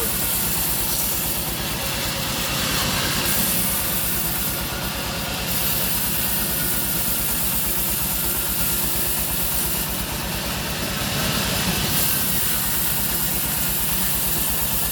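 Sawmill saw running and cutting through a mahogany log. It is a steady mechanical run with a fast, even low pulsing under a hiss that shifts in tone a few times.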